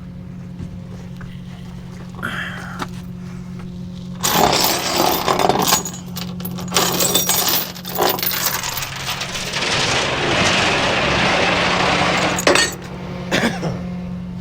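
An engine idles steadily under loud metallic clanking and rattling, which starts about four seconds in and stops near the end, with a couple of short clanks after.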